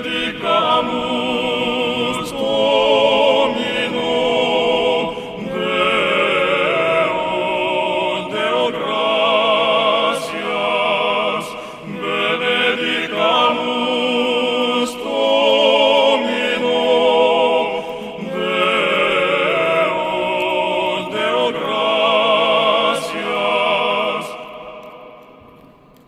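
Classical, operatic-style singing with strong vibrato, sung in phrases a second or two long with short breaks between, fading out near the end.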